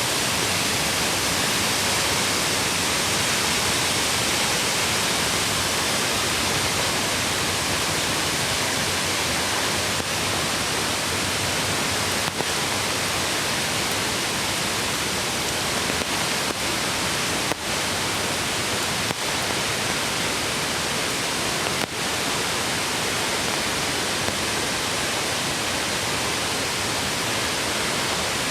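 Mountain creek rushing steadily over rocks, an even unbroken hiss of water, with a few faint ticks in the middle.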